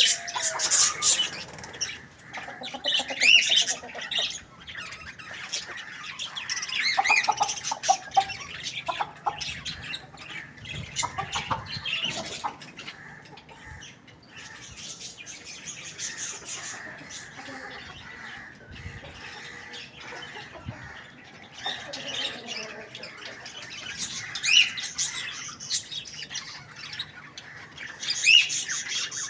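Chickens calling: scattered squawks and clucks mixed with higher chirps, loudest near the start and near the end, quieter in the middle.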